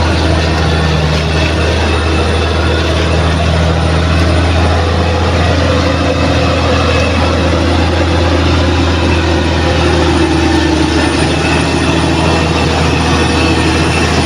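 Bulldozer's diesel engine running steadily under load, a loud low drone with clattering mechanical noise over it.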